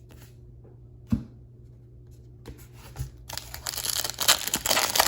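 A Bowman trading-card pack's wrapper being torn open and crinkled, a dense crackling starting a little past halfway through. Two light knocks, as of cards or a pack set down, come before it.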